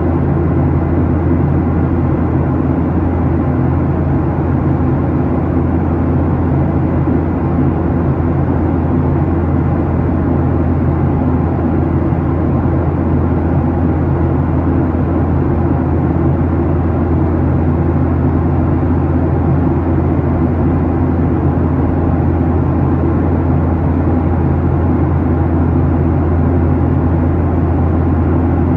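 Steady drone inside the cabin of a Boeing 737-800 climbing under power: its CFM56-7B engines and the airflow over the fuselage make a strong, even low hum with a hiss above it.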